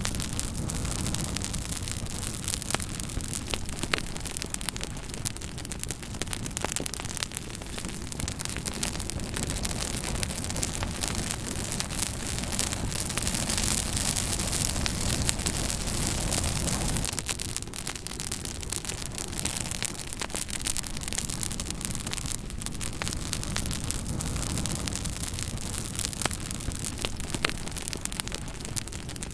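Fire crackling steadily, with a constant hiss and many sharp pops and snaps scattered through it.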